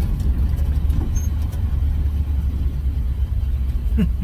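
1970 GMC pickup driving along, its engine and road noise making a steady low rumble.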